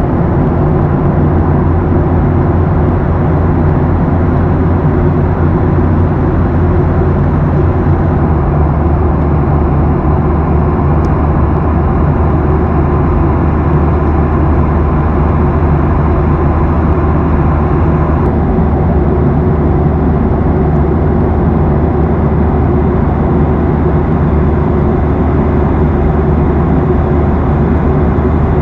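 Steady cabin noise of a Boeing 737 airliner in flight: a loud, even rush of air and engines with a deep low drone underneath.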